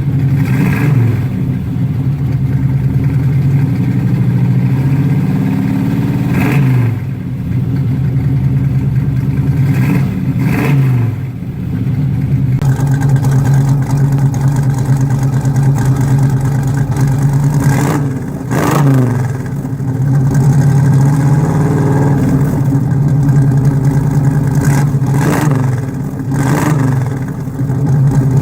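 Cammed Chevrolet 350 small-block V8 idling through full-length Hooker headers, stainless dual exhaust and Pypes Street Pro mufflers. The throttle is blipped about six times, each rev rising quickly and falling back to idle.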